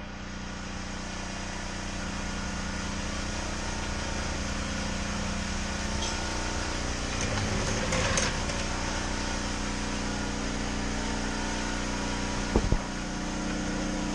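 A machine running steadily with a constant hum, and a couple of brief knocks about twelve and a half seconds in.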